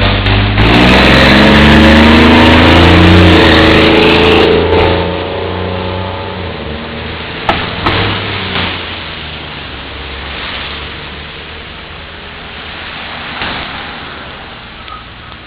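Fire truck's engine accelerating hard as it pulls away, its pitch rising over the first few seconds with a loud rush of noise, then fading steadily as the truck drives off. Two sharp clicks about halfway through.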